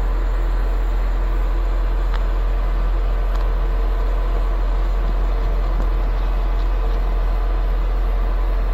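Concrete pump running steadily, its engine and hydraulics giving a continuous low hum with a few faint ticks.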